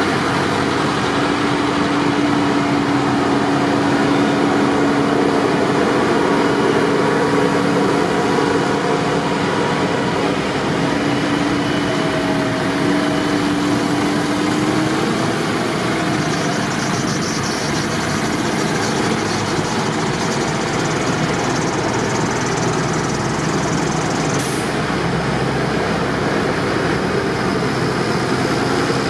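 Tractor engines running steadily.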